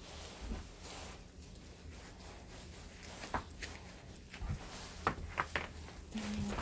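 A few scattered soft footsteps and knocks, spaced irregularly, over a low steady rumble, typical of walking in snow.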